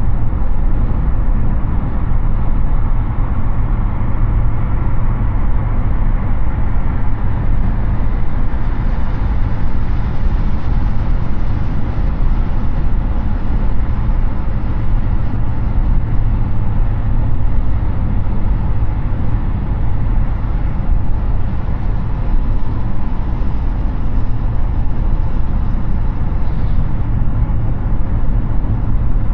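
Steady tyre roar and wind noise of a Hyundai Ioniq 6 electric car cruising at highway speed, with a deep low rumble and no engine note.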